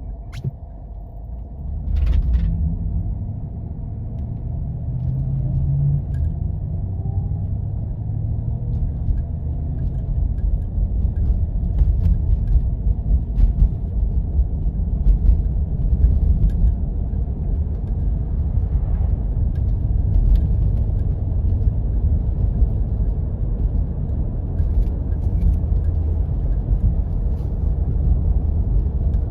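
Jeep driving on a snowy back road: a steady low rumble of engine and tyres that grows louder about two seconds in, with scattered light clicks and knocks.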